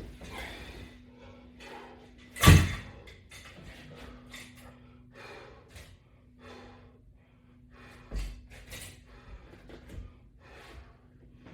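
Short, forceful breaths repeated through a set of abdominal crunches, with a loud thump about two and a half seconds in and a smaller one around eight seconds.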